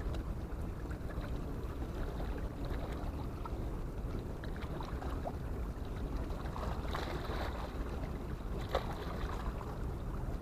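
Steady low wind rumble on the microphone over the wash of harbour water, with a few faint scattered clicks and one sharper click near the end.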